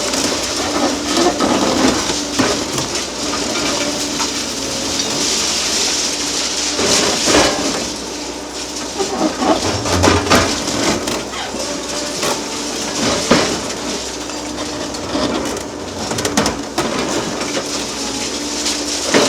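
Hydraulic excavator demolishing a concrete bridge: irregular cracking, crunching and clattering of concrete breaking and debris falling, over the steady running of the excavator's diesel engine and hydraulics.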